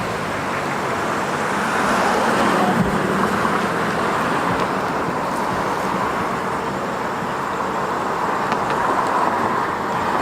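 Steady road traffic noise, a continuous rush of passing cars, with a low engine hum underneath that fades out partway through.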